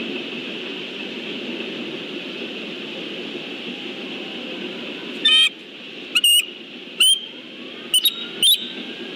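Bald eagles calling: a series of high, squeaky, chattering call notes, the first stuttered, beginning about five seconds in, over a steady background din.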